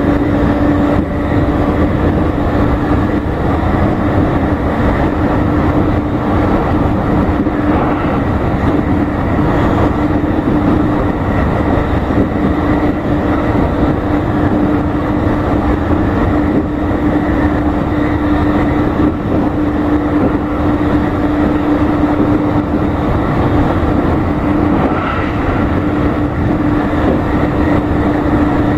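Interior running noise of a JR East E531 series electric multiple unit travelling at high speed: a steady rumble of wheels on rail with a constant low hum underneath, unchanging throughout.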